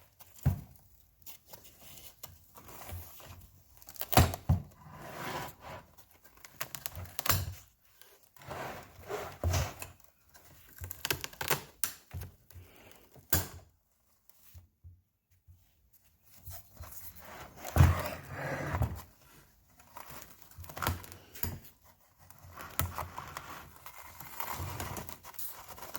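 Old 1958 MGA seat upholstery being pulled off its frame by hand: irregular crinkling, tearing and snapping as the glued and stapled covering comes away. There is a short pause about halfway through.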